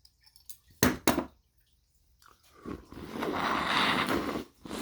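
A pry-off cap clicking as it is levered off a bottle of sparkling cranberry ginger cider, then a long loud fizzing hiss as the carbonated cider foams up and gushes out of the bottle. The bottle was not shaken, and the foaming over is unexplained. A single click follows near the end.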